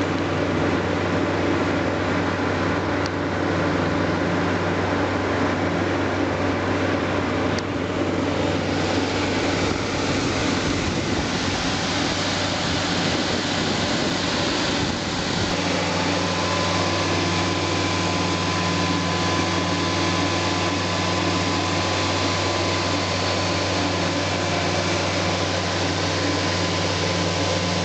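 Heavy machinery running steadily with a constant engine hum, the sound shifting slightly about halfway through.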